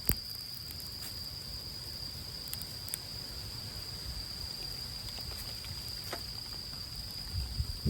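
A small campfire of damp wood crackling, with a few sharp pops spread through, over a steady high-pitched insect trill.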